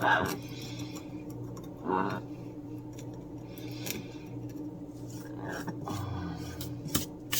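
Hands working on a small perch: rubbing and scraping with a few short louder knocks and light clicks, over a low steady hum.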